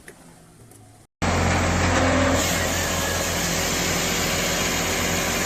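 Quiet outdoor ambience with a faint chirp, then, after a sudden cut about a second in, an engine-driven hydraulic log splitter running steadily and loud, with a low hum.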